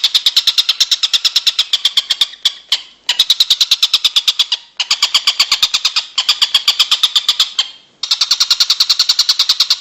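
Songbird call of rapid, evenly repeated high notes, about seven a second, in phrases of one to three seconds broken by short pauses.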